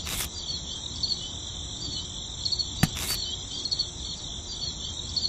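Crickets chirping in a steady, high trill, with a sharp click at the start and another a little before halfway.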